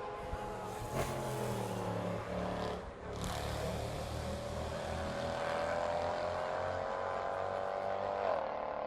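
Racing car engines heard at a circuit, several engine notes overlapping and slowly rising and falling as the cars run. The sound dips briefly about three seconds in.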